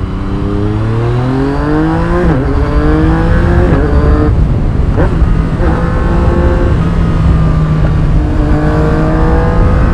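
2017 Yamaha MT-09's inline-three engine through an Akrapovič carbon full exhaust system, accelerating hard up through the gears: the pitch climbs in each gear and drops back at each shift, several times in the first five seconds, then holds at fairly steady revs. A low wind rush runs underneath.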